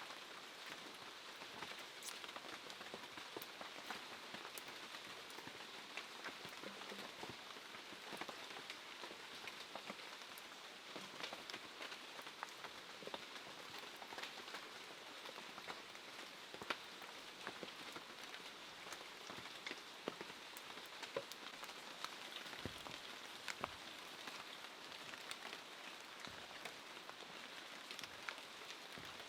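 Quiet, steady rain with a dense patter of individual drops ticking on surfaces.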